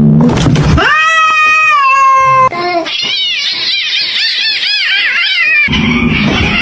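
Cat yowling: one long drawn-out yowl, then a warbling yowl whose pitch rises and falls about three times a second.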